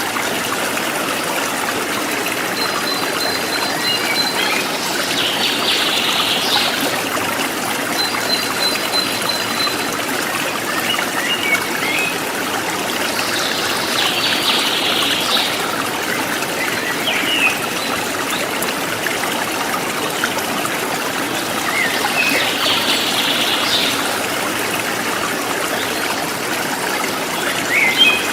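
River water flowing and trickling steadily over stones. Every few seconds there are short, high chirping calls over the flow.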